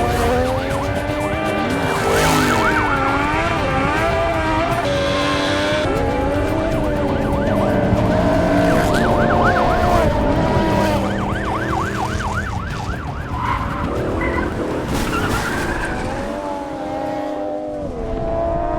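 Engines revving up and down with tyres squealing through drifts, and a police siren wailing in quick cycles about halfway through.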